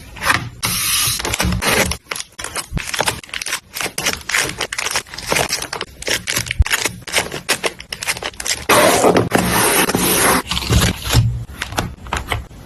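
Close-miked paper and stationery being handled: scraping and rustling with many small taps and clicks, and two longer stretches of steady rasping, one about half a second in and one around nine seconds in.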